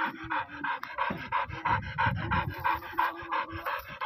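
A dog panting fast and hard, about four breaths a second. A low rumbling noise from the digging sits under it in the middle.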